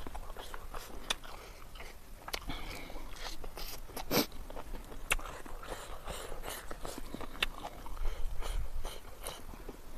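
Close-miked chewing of a mouthful of rice and chicken curry, with scattered wet mouth smacks and clicks; the sharpest click comes about four seconds in.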